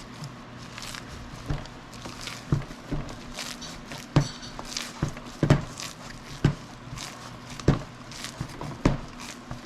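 Ground jalapeno sausage meat being mixed: wet slaps and squelches at irregular intervals, roughly one a second, over a faint steady hum.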